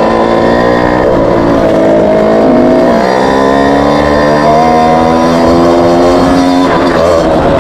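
Moped engine running under way, its pitch rising and falling with the throttle, with a dip about three seconds in before it picks up again.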